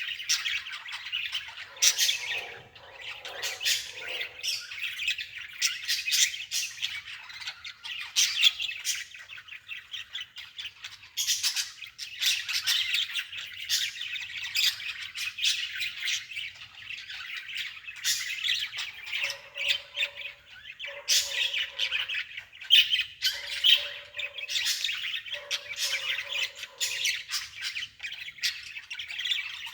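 Many birds chirping and squawking continuously, with dense, overlapping sharp calls. Four short, lower-pitched calls come about a second apart in the second half.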